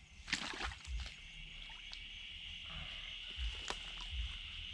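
Insects droning steadily at one high pitch, setting in about a second in, with a few sharp knocks and low thumps over it.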